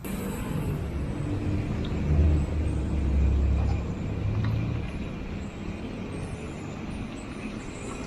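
Road traffic passing close by, with a motor vehicle's low engine rumble that swells about two seconds in and eases off after about five seconds.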